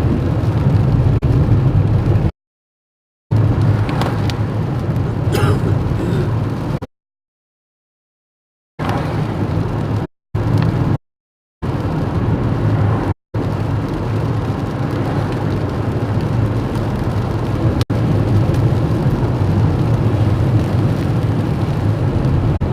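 Car running on the road, its engine and road noise heard from inside the cabin as a steady low hum. The sound cuts out completely several times, for up to about two seconds.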